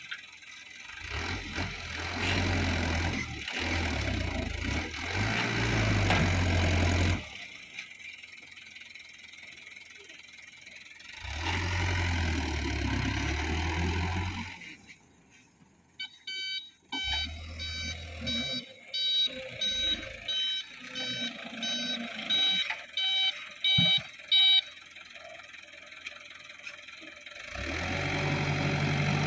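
Dump truck diesel engine running in several loud stretches with quieter gaps between, and partway through a reversing alarm beeping repeatedly for several seconds before stopping.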